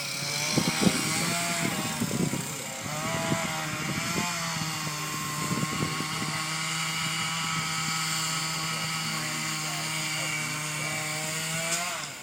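Chainsaw engine running steadily, its pitch dipping and rising now and then, with scattered knocks; it cuts off just before the end.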